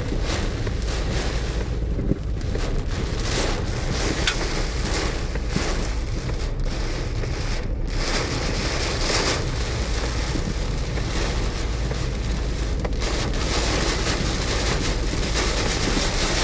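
Heavy rain and wind hitting a car driving through a severe storm, over steady road noise, with a couple of short sharp knocks about two and four seconds in.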